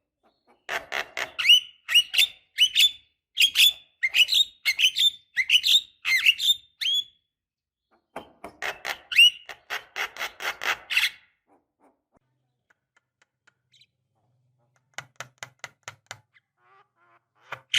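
Javan myna (jalak kebo) giving rapid, harsh chattering calls mixed with rising squawks, in two runs of about six and three seconds with a short break between.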